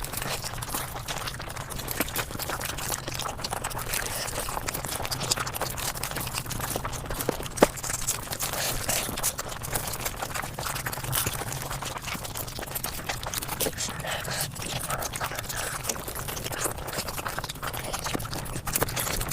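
Eating sounds sped up about five times: a dense, continuous run of rapid chewing, crunching and mouth clicks, with one sharper click a little past a third of the way through.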